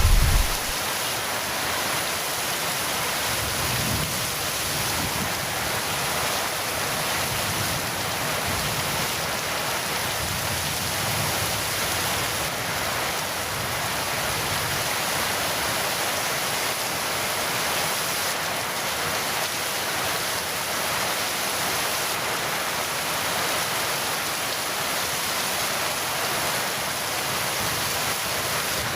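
Heavy rain falling steadily in a dense, even hiss. The tail of a thunder rumble dies away within the first second.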